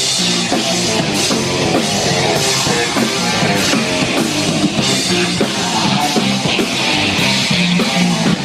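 Rock band playing live: distorted guitars, bass and drum kit come in together at full volume at the start and drive on with steady drum and cymbal hits.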